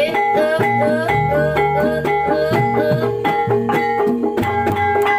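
Javanese kuda lumping / reog accompaniment music: rapid, even drum strokes under a repeating melody of short notes that each bend upward, over several held ringing tones.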